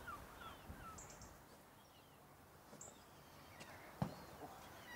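Faint outdoor ambience with a few short, scattered bird chirps, and a single sharp knock about four seconds in.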